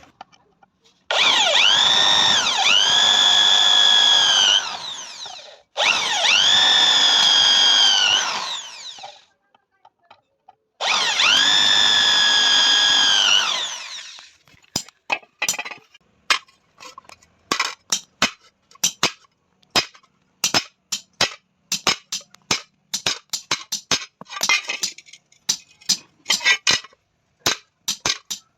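A handheld electric power tool run three times on iron, each run a few seconds long, its whine dipping as it bites and then holding steady. After that come quick, irregular hammer blows on the sheet iron of the tawa, several a second, some of them ringing.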